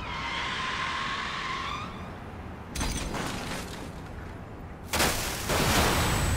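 Sound-effect car crash: a high screech for about two seconds, a sudden impact about three seconds in, then a louder crash about five seconds in. A thin, steady high ringing tone starts just before the end.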